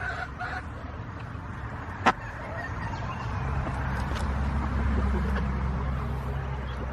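Chickens clucking faintly at the start, a single sharp click about two seconds in, then a low engine hum that swells from about three seconds in and eases off near the end.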